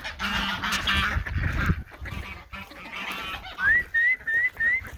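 Domestic geese honking: a jumble of overlapping calls over a low rumble for the first two seconds, then four short, clear honks in quick succession near the end, about three a second. They come from birds agitated at feeding time.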